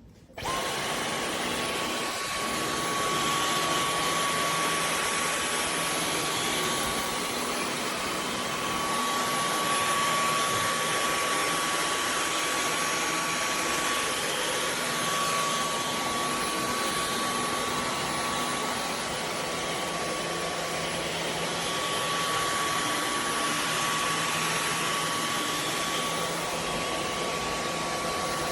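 Dyson V15 Detect cordless vacuum cleaner switched on and running steadily: a rush of air with a steady high whine over it.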